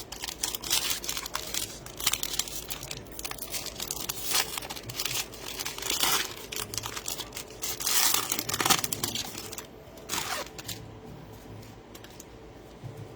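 Trading-card pack wrappers being torn open and crinkled, with a dense run of crackling that dies down after about ten seconds.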